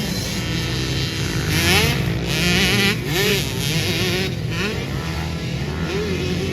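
Several pit bike engines racing together, their pitch repeatedly rising as the riders open the throttle and dropping as they shift or back off.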